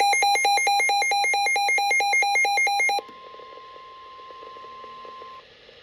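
A weather radio receiver's alert alarm beeping loudly and rapidly, about eight shrill beeps a second, for about three seconds. It then cuts off abruptly, leaving the broadcast's faint steady single-pitch warning alarm tone, which stops shortly before the end.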